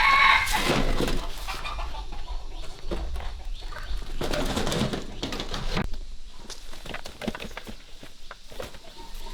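Domestic chickens clucking, with a pitched call near the start, among scattered short knocks and scratching.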